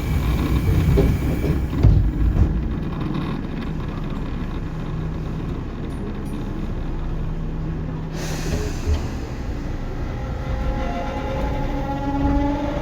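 Tobu 9050 series electric train running, with a steady rumble of wheels on the rail. A few seconds before the end, the motors start to whine with a pitch that rises as the train picks up speed.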